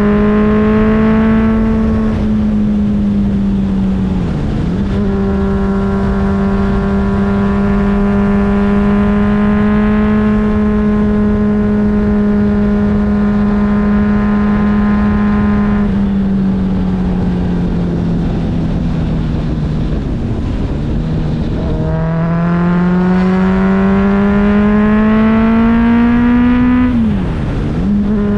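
Motorcycle engine under way, its pitch holding steady in gear, dropping briefly at gear changes about four seconds in and again near the end, and sagging and then climbing again in the middle stretch, with a rumble of wind noise underneath.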